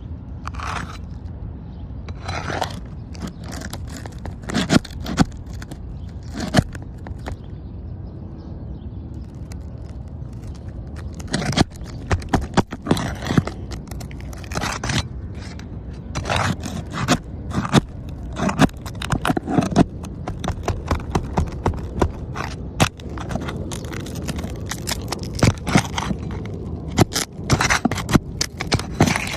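GAF Royal Sovereign asphalt shingles being handled and pulled from a freshly opened bundle: irregular scraping and rustling strokes, over a steady low rumble.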